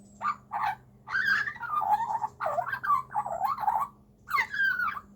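Young Australian magpie calling in a run of short, squawky, warbling calls, one after another with a brief pause about four seconds in.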